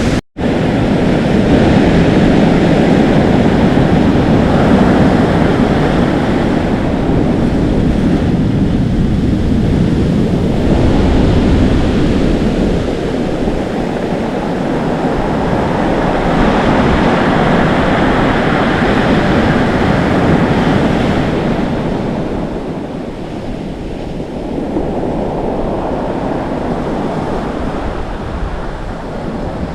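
Atlantic Ocean surf washing and foaming on the shore, with wind buffeting the microphone. The wash swells and eases over several seconds, and the sound cuts out for an instant just after the start.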